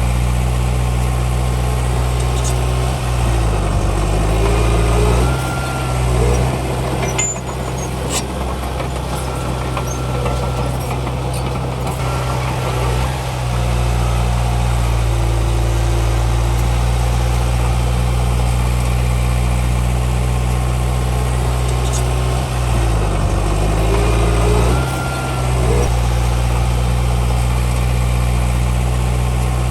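Heavy diesel engine of earthmoving machinery running steadily. Its pitch dips and recovers twice, a few seconds in and again near the end.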